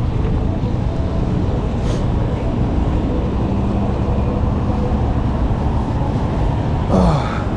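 A steady low outdoor rumble. About seven seconds in there is a short sound that falls quickly in pitch.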